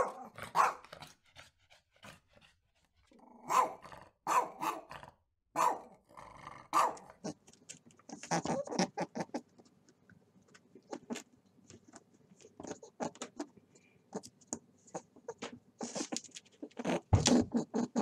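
Small terrier barking: a run of short, sharp barks over the first seven seconds or so, then quieter, more scattered sounds, with another loud cluster near the end.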